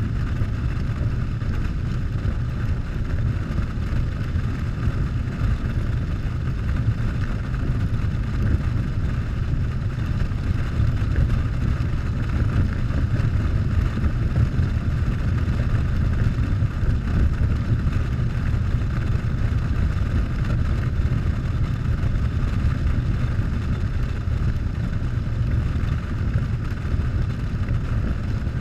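Harley-Davidson Softail's V-twin engine running steadily while riding at a constant speed, heard from a fairing- or helmet-mounted camera, with steady wind noise over it.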